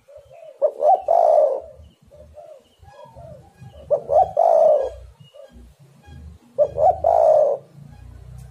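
Spotted dove (tekukur) cooing: three loud call phrases about three seconds apart, each a couple of short notes run into a longer coo, with softer coos in between.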